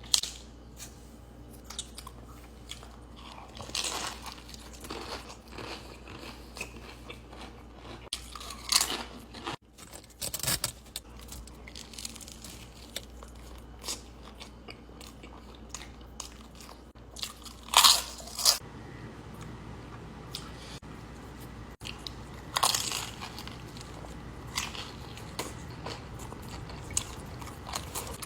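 Close-miked eating: a person biting and chewing, with scattered crisp crunches. The loudest crunches come a little past halfway through and again a few seconds from the end.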